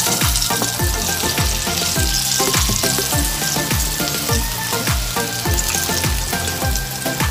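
Breaded chicken pieces sizzling as they deep-fry in hot oil in a wok, done and being lifted out with tongs. Background music with a steady beat of about two a second plays under the sizzle.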